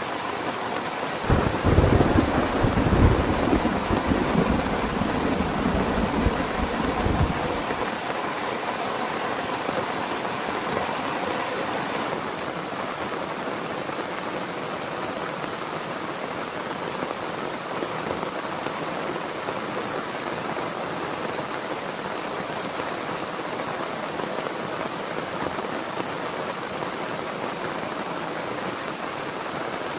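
Heavy rain falling steadily, with a roll of thunder that rumbles in about a second in and dies away by about seven seconds.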